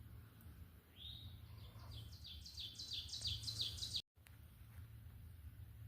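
A songbird singing a series of short slurred whistled notes, about four a second, climbing in pitch over some three seconds before cutting off suddenly. A faint low rumble runs underneath.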